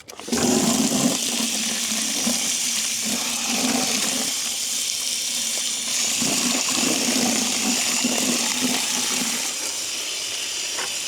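Water running from a tap into a bucket: a steady rush of splashing water that starts abruptly.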